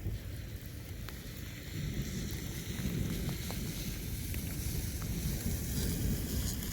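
Thunderstorm: a low rumble that swells about two seconds in and holds, over a steady hiss of wind.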